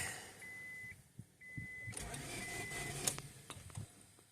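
Electronic warning chime of a 2004 Honda Odyssey beeping three times, even high tones about half a second long roughly once a second, with a faint low hum and a few light clicks behind.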